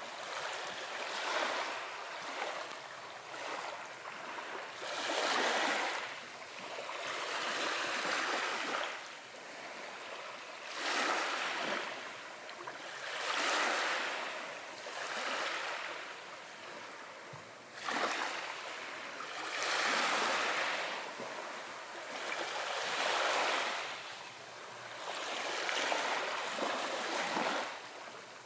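Ocean waves breaking and washing in, swelling and ebbing every two to three seconds.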